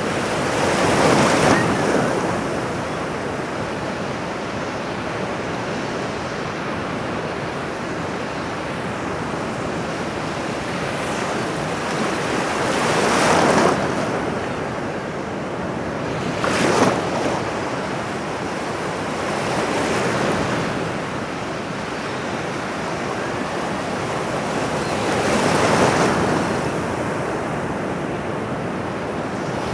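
Ocean surf washing continuously on a shore, swelling several times as larger waves break.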